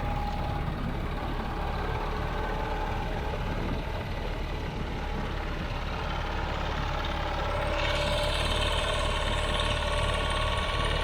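Allis-Chalmers HD5 bulldozer's GM 3-71 two-stroke diesel engine running steadily, getting somewhat louder about eight seconds in.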